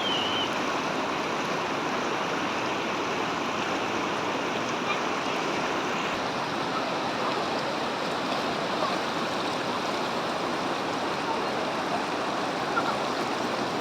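Waterfall water rushing and splashing in a steady, unbroken roar of white noise.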